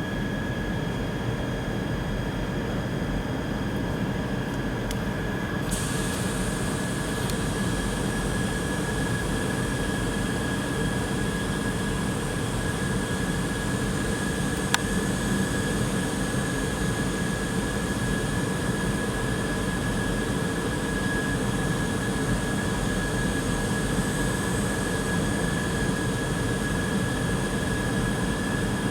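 Car paint booth's ventilation and extraction fans running with a steady roar and a constant whine. About six seconds in a higher hiss joins, and there is a single sharp click midway.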